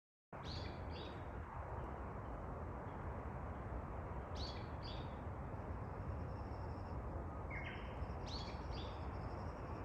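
Small birds giving short, high chirping calls in a few clusters, near the start, in the middle and toward the end, over a steady outdoor background hiss with a low rumble.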